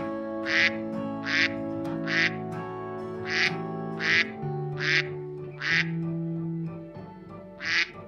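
A waterfowl quacking repeatedly in short nasal calls, a little more than one a second with a pause near the end, over background music with long held notes.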